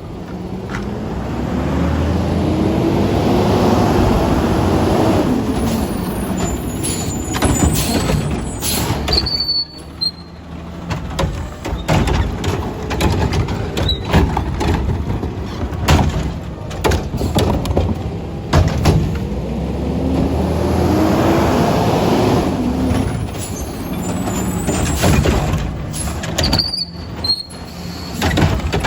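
Autocar ACX garbage truck with a McNeilus Meridian body and Curotto Can arm working through two pickup cycles. Each time, the engine revs up and back down to drive the hydraulics while the arm handles a yard-waste cart, with clanks. An air-brake hiss follows each cycle, about a third of the way in and again near the end.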